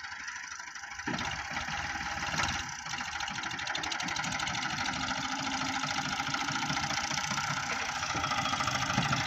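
Tractor diesel engine running with an even, rapid pulsing beat; it gets louder about a second in and then holds steady.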